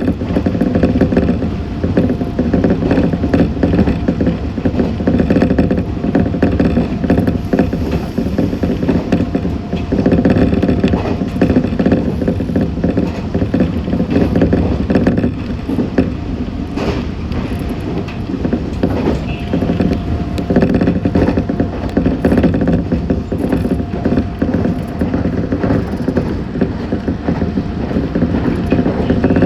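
A Meitetsu 6500 series electric train running at speed, heard from inside the front car. The wheels rumble on the rails, the motors hum steadily, and the car clatters and rattles.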